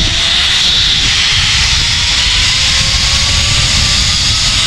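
Zipline trolley pulleys running along the steel cable, with a thin whine that rises slowly in pitch as the speed builds, over a heavy rumble of wind on the microphone.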